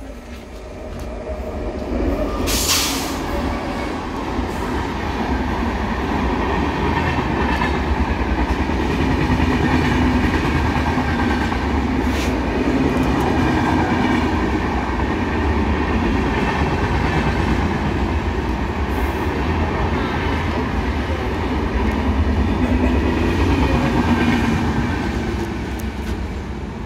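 Train passing unseen behind trees, a deep rumble with rattling wheels that builds over the first couple of seconds, holds steady, and eases slightly near the end. A brief sharp burst of noise comes about three seconds in.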